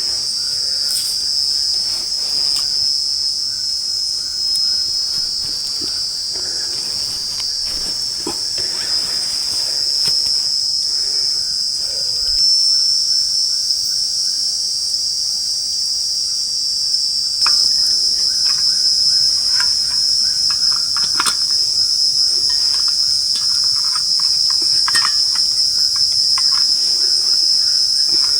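Night insect chorus in tropical forest: a steady, high-pitched shrill drone of crickets and other insects, with scattered faint clicks underneath. It grows a little louder about halfway through.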